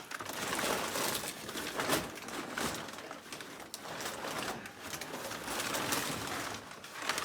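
Packaging being pulled off and handled: rustling and crinkling with scattered sharp crackles and knocks.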